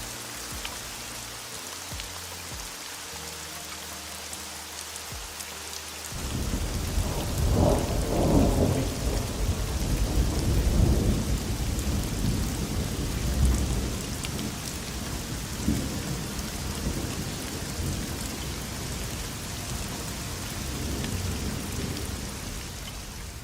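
Steady heavy rain hiss. About six seconds in, a long roll of thunder starts abruptly, swells over the next few seconds and keeps rumbling as it slowly fades.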